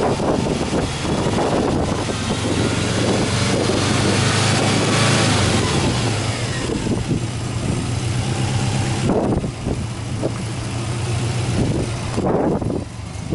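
Subaru Impreza WRX STi's EJ20 turbocharged flat-four with an aftermarket turbo, running with the bonnet open; the engine note rises and falls in the middle as it is revved.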